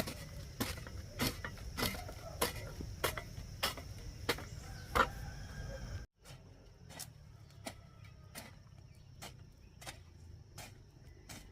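Night insects chirring in a steady high drone, with a regular click about every half second. A low rumble underneath cuts off suddenly about six seconds in, leaving the chirring and clicking quieter.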